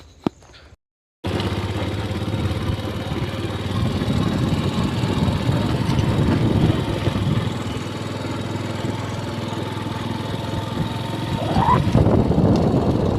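Motorcycle engine running steadily while riding, with a short rising note near the end.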